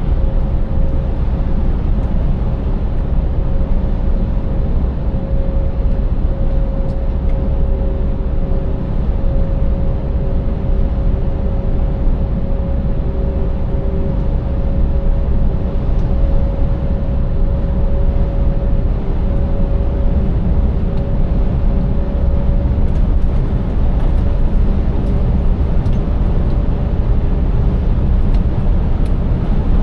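Scania 590S truck's V8 diesel engine pulling steadily at cruising speed with low road rumble, and a steady whine held above it for most of the stretch.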